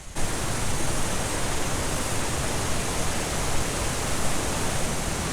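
High-volume waterfall rushing: a steady wash of falling water that comes in suddenly at the start and holds evenly.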